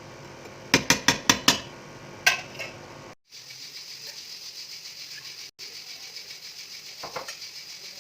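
A metal utensil clinking against dishware: five quick ringing taps, then one more strike. After a cut, a faint steady hiss with a soft knock near the end.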